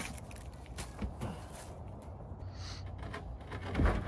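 Light knocks and clicks, then a dull thump near the end, as a part is handled and pushed into place, over a steady low hum.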